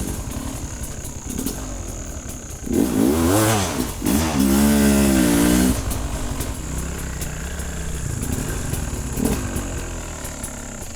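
Honda XR200 dirt bike's single-cylinder four-stroke engine revving: a quick rise and fall about three seconds in, then a louder rev held from about four to six seconds, before it settles back to a steadier, lower run.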